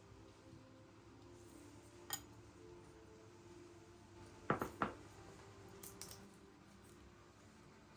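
Light clinks and knocks of kitchenware being handled: a single one about two seconds in, a quick cluster of three, the loudest, about halfway, then a couple of softer ones a second later.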